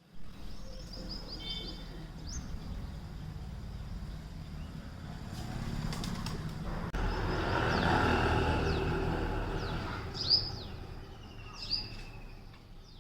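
Small birds chirping in short, high calls: a cluster in the first two seconds, then two louder chirps about ten and twelve seconds in. Under them runs a steady low rumbling noise that swells in the middle.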